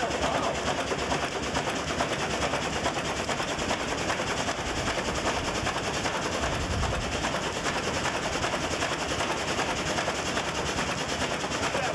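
1902 American LaFrance steam fire engine running under steam, its double-acting piston pump working water with a rapid, even beat of exhaust puffs.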